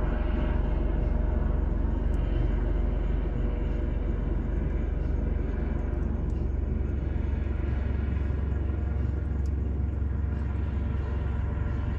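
Wood bonfire burning, with a few faint, sharp crackles and pops scattered through it over a steady low background rumble.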